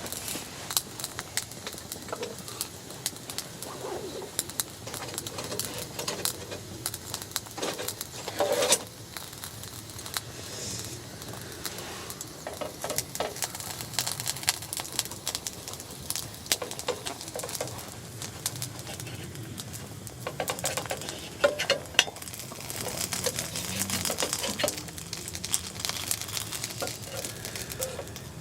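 Small campfire of wood-pellet cat litter crackling, with dense irregular ticks and a few louder pops.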